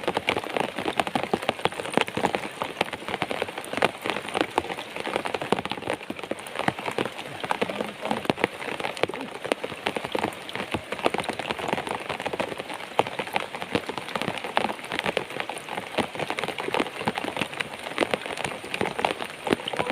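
Steady rain falling, a dense, even run of small drop hits close by.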